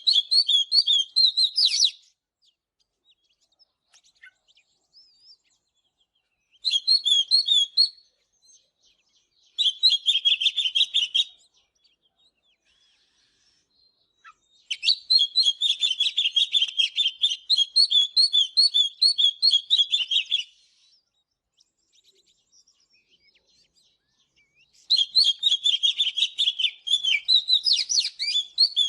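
Oriental magpie-robin singing in bouts of rapid, high chirping notes. There are five bouts, each lasting about one to six seconds, with short silent gaps between them.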